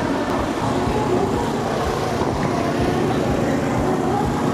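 Steady vehicle traffic rumble, even and continuous, with faint wavering voice-like tones in the background.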